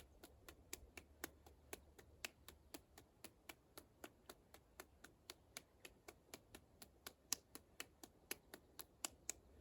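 5-inch D-Ball medicine ball slapped quickly back and forth between the hands, faint sharp slaps at about four a second.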